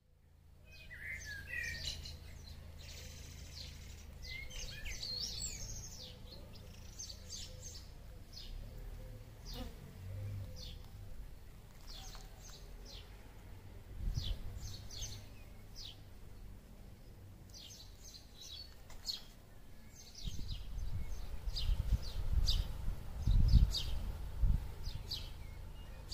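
Small birds chirping in short, high, repeated notes, over a low outdoor rumble that swells into louder gusts in the last few seconds.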